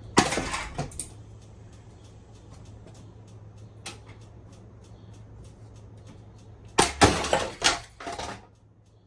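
Running ceiling fan with a steady motor hum and a fast, even ticking, broken by loud clattering knocks just after the start and a longer burst of clatter near the end.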